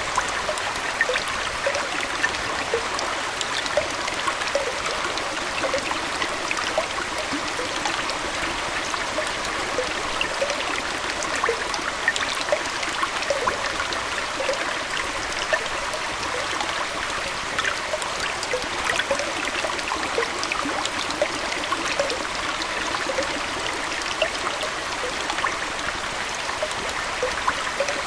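Aquarium water flowing and trickling steadily, with a constant scatter of small bubbling plinks.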